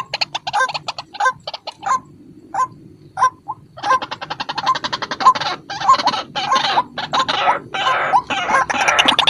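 White-breasted waterhen calling: a fast run of short, repeated notes that thins to a few spaced notes about two seconds in, then resumes as dense, continuous calling about four seconds in.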